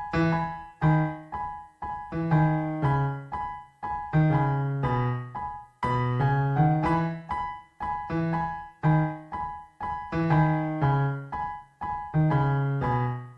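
Background music: an electric piano playing a tune of struck notes and chords, each note dying away, ending just before the close.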